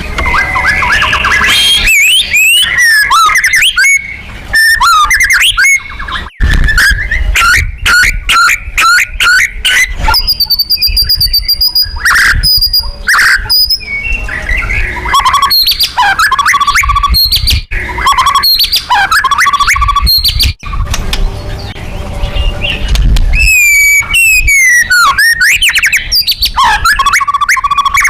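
White-rumped shama singing loudly and without pause: a rapid run of varied whistles, fast trills, sweeping notes and harsh calls. It is a loud 'pancingan' song meant to provoke other shamas.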